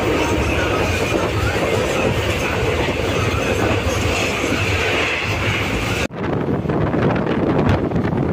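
Indian Railways express passenger coach running at about 108 km/h: steady noise of the wheels on the rails inside the coach. About six seconds in the sound cuts abruptly to the open window, where wind buffets the microphone over the running train.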